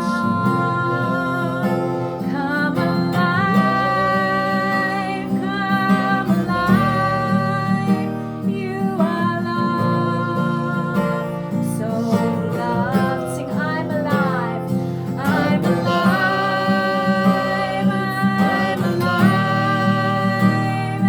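A woman singing a slow song to an acoustic guitar.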